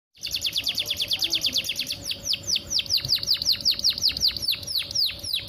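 A female domestic canary in breeding condition, calling for a male. First comes a fast trill of short high notes, about ten a second. About two seconds in it changes to a slower run of downward-sweeping notes, about five a second.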